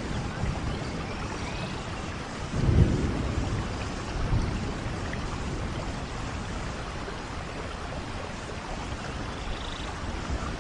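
Steady rain, with low rumbles of distant thunder swelling twice near the start.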